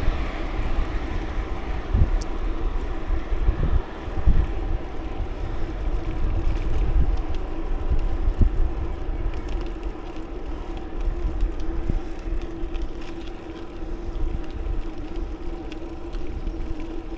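Wind rumbling and buffeting on the microphone of a moving bicycle, with a steady hum from the ride underneath.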